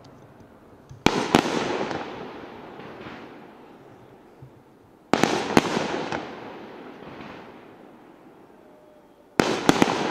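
Fireworks shells bursting aloft in three volleys about four seconds apart. Each volley is a few sharp bangs close together, followed by a long fade.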